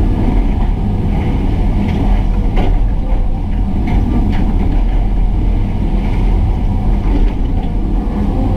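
Hydraulic excavator's diesel engine running steadily, with a few scattered short clanks and scrapes.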